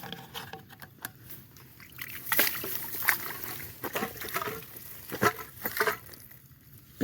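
Water sloshing and splashing in irregular bursts as an eel trap is handled and drained in shallow floodwater.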